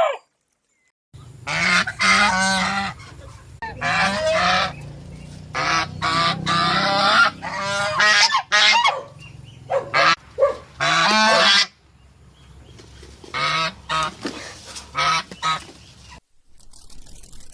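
Large waterfowl honking: a long run of loud, repeated calls that often overlap, over a low steady rumble. The calls pause briefly about twelve seconds in, then several more follow.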